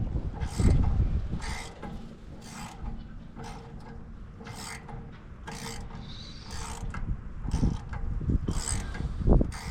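Socket ratchet worked in short strokes, about one a second, snugging the blade bolts on a wood chipper, with a few dull knocks of the tool near the start and near the end.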